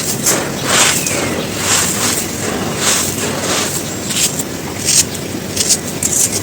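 Dry, crumbly cones being crushed and crumbled: a continuous gritty crunching with irregular sharp crackles, several a second.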